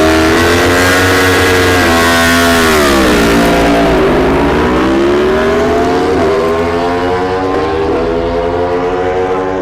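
Ducati and Yamaha superbikes accelerating hard in a drag race, engine pitch climbing and dropping back at each upshift, fading slightly as they pull away.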